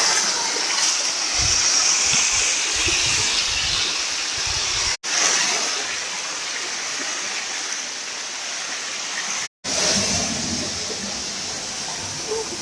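Waterfall rushing: a loud, steady hiss of falling water, with low buffeting on the microphone in the first few seconds. The sound drops out briefly twice, at about five seconds and again just before ten seconds.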